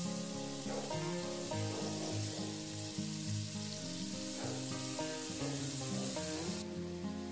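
Canjiquinha with fried chicken sizzling as it is sautéed in the pan, a steady hiss that thins near the end, under light background music.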